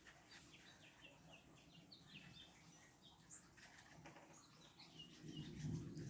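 Faint outdoor birdsong: small birds giving repeated short, high chirps, with a brief low rumble near the end.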